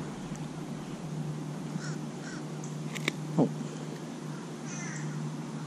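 Birds calling faintly in the trees over a steady low hum, with a sharp click about three seconds in and a short squeak falling in pitch just after it.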